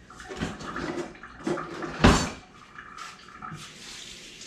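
Kitchen clatter: a few knocks of dishes or pans being handled, the loudest about two seconds in, with water running faintly.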